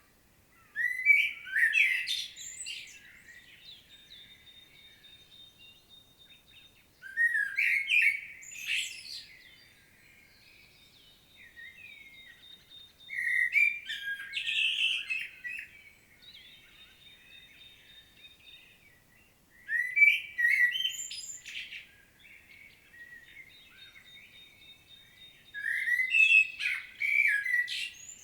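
Common blackbird singing: five separate phrases, each a short fluting warble that ends in a high squeaky twitter, with pauses of a few seconds between them.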